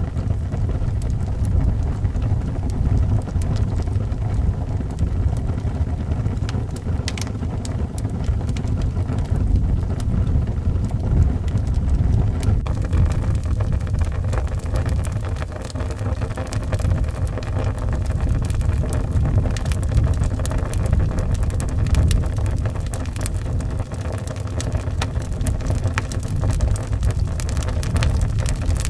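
Wood fire crackling with scattered sharp pops, over a steady low rumble of howling wind. The crackling grows denser a little before halfway through.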